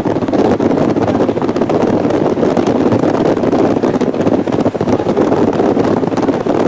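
Strong wind buffeting the microphone over the steady running noise of a train crossing a long sea bridge.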